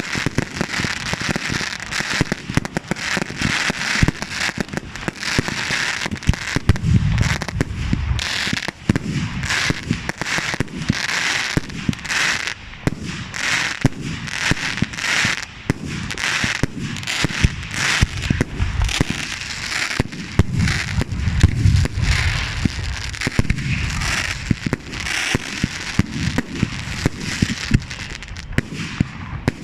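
A fireworks barrage: many sharp bangs in rapid succession, with crackling between them and heavier low booms about seven seconds in and again around twenty-one seconds.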